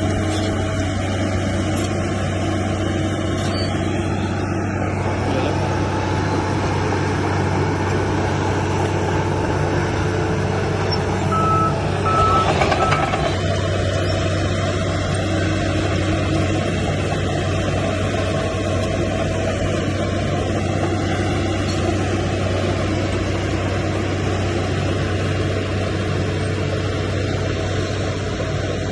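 Heavy diesel earthmoving machinery running steadily. About twelve seconds in, a reversing alarm beeps three times while the engine briefly gets louder.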